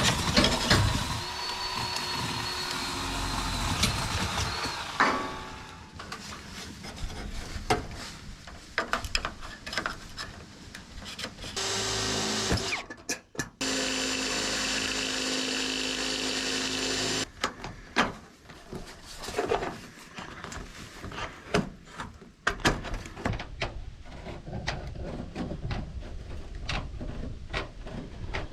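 Power drill running in two steady bursts, the first in the opening five seconds and the second from about twelve to seventeen seconds in, cutting a hole for a gutter outlet. Scattered clicks and knocks of handling follow.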